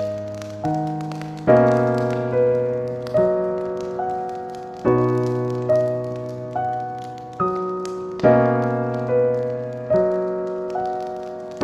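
Slow, gentle piano music: notes and chords struck about once a second, each ringing and fading, with the harmony shifting every couple of seconds.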